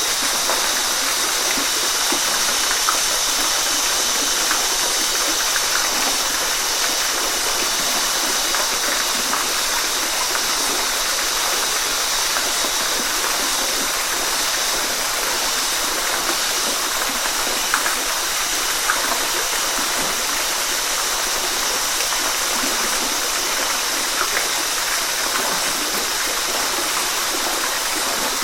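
Waterfall: a steady rush of falling water, bright and hissy with little deep rumble, with a few small splashes ticking through it.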